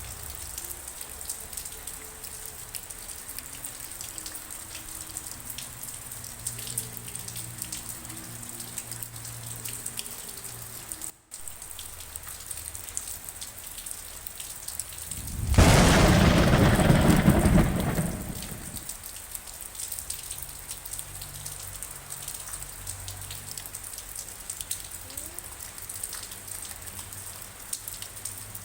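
Steady rain, with many drops pattering on surfaces. About fifteen seconds in, a loud crack of thunder breaks in suddenly and rumbles for about three seconds before fading back into the rain.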